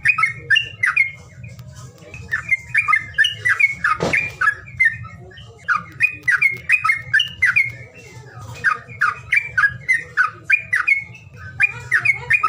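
Songbird calling in repeated bursts of rapid, harsh chirps, each burst about two seconds long with short pauses between, over a low steady hum. A single knock about four seconds in.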